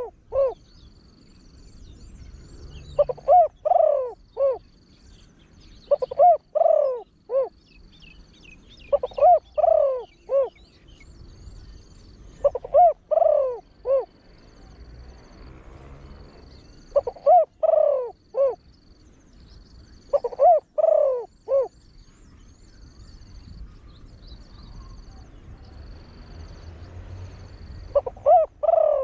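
Spotted dove, a trained deep-voiced bird, cooing: phrases of several quick coos repeated about every three seconds, with a pause of about six seconds near the end before it calls again.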